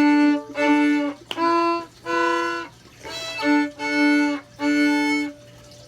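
Viola played with a bow: a run of about seven or eight separate bowed notes, each under a second long, with brief gaps between them.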